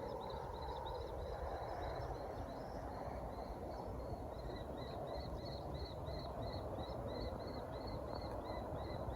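Young kestrels calling: a steady run of short, high, repeated notes, about two or three a second and most regular in the second half, over a steady rushing noise.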